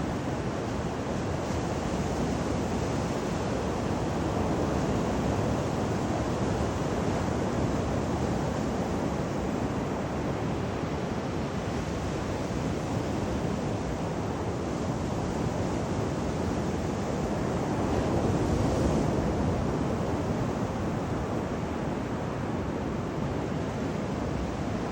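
Ocean surf washing onto the beach at high tide, mixed with wind rushing over the microphone: a steady noise that swells a little twice.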